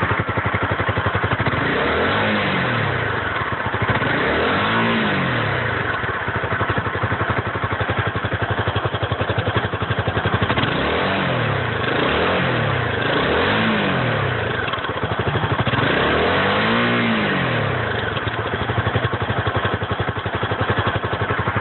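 Honda CBR250R single-cylinder engine through its stock exhaust muffler, idling with about six throttle blips that rise and fall in pitch, in two bunches.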